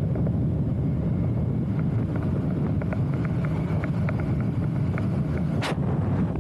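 Wind buffeting the microphone: a steady low rumble. A string of light ticks runs through the middle, and there is one sharp click near the end.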